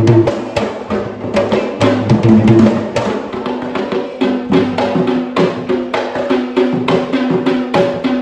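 Traditional Sri Lankan folk drumming: quick, dense drum strokes in a driving rhythm, with held pitched tones of a melody under the beats.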